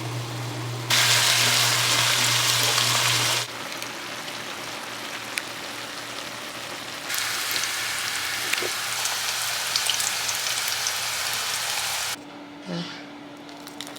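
Food sizzling and crackling in hot oil in a pan, growing louder and softer in sudden steps, with a steady low hum underneath.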